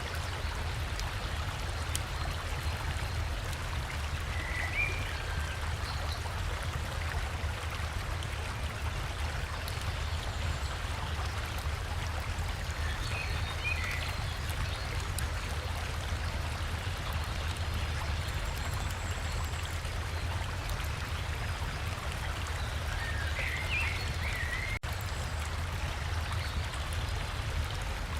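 Steady rush of flowing river water with a low rumble underneath. Short bird chirps come through three times: about five seconds in, around the middle, and shortly before the end.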